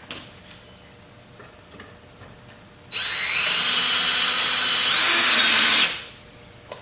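Power drill driving a screw through a 2x4 into a wooden stump: a steady motor whine for about three seconds, rising a little in pitch just before it stops.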